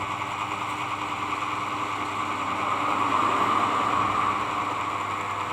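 Electric hair clipper running steadily with a freshly sharpened blade, a continuous motor hum with a brighter buzz about three seconds in.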